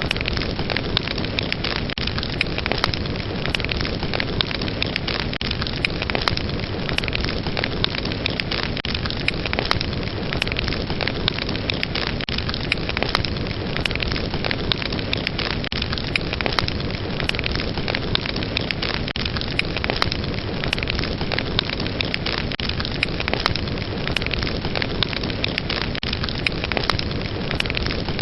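Fireplace fire crackling: many small pops and snaps over a steady hiss, with no pause or change.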